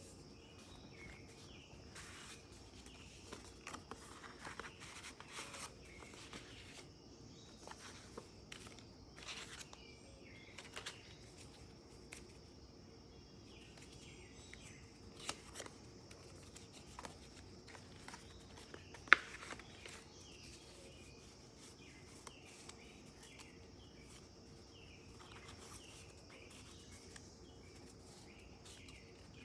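Faint rustling and handling of the paper pages of a handmade junk journal as they are turned, in scattered short bursts, with one sharp click about two-thirds of the way through.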